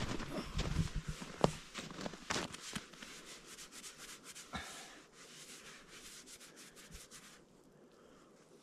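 Irregular rubbing and scraping strokes, thinning out and fading toward the end: a greasy dish being scrubbed with snow.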